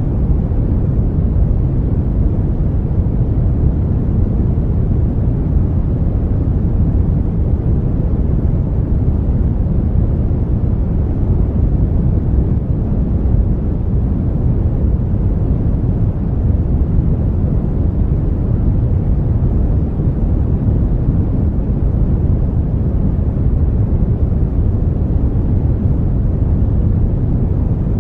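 Brown noise: a steady, deep, rumbling hiss with its weight in the low end, constant in level with no changes or events.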